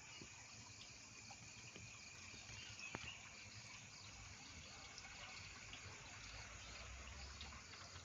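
Faint outdoor ambience, near silence: a steady hiss with a thin high steady tone and a few faint ticks.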